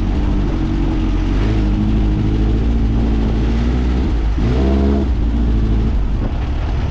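Volkswagen 1600cc air-cooled flat-four engine of a dune buggy running steadily while driving, with a quick rise in revs about four and a half seconds in.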